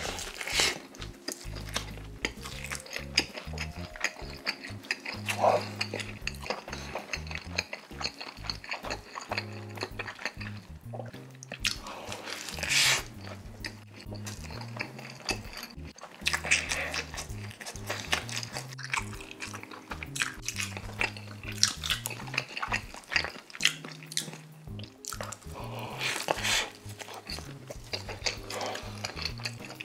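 Close-up biting and chewing of a toasted egg-and-cheese sandwich, in repeated clusters of short clicky mouth sounds, over background music with a repeating low melody.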